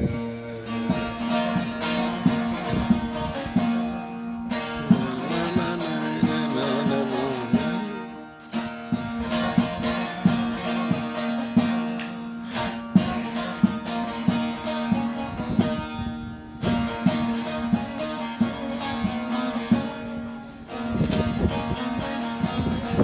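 Instrumental passage of Kurdish folk music: a plucked string instrument plays quick runs of notes over a steady drone, breaking off briefly a few times.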